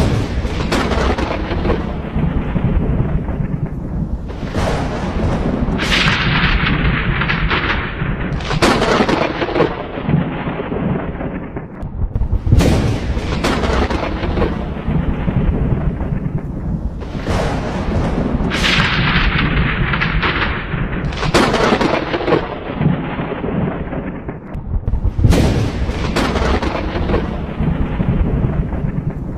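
Thunderstorm: thunder rumbling without a break, with a new sharp crack every two to four seconds that rolls away, over steady rain.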